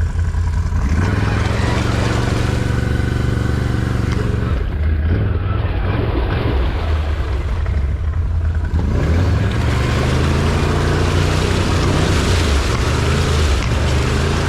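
Off-road vehicle engine running hard. It revs up about a second in and holds, drops back around the middle, then revs up again for the rest.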